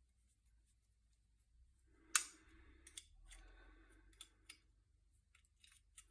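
Hand tools working on small engine parts: one sharp click about two seconds in, then scattered lighter clicks and clinks.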